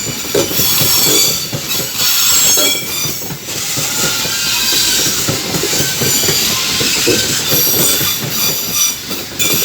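Loaded coal gondola wagons of a freight train rolling past, their steel wheels squealing in high, steady tones over the rumble and clatter of wheels on the rails. Around the middle, the squeal gives way to a hiss for a few seconds, then comes back.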